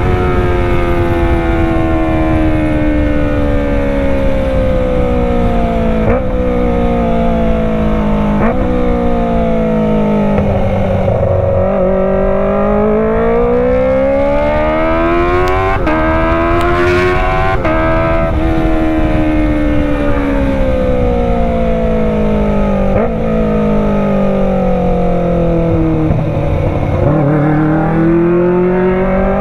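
Kawasaki ZX-25R's inline-four engine through a Racefit Slash full-system exhaust, the revs sweeping slowly down and back up several times as the bike is ridden. Short upward jumps in pitch while the revs fall, about six and eight seconds in and again later, sound like downshifts.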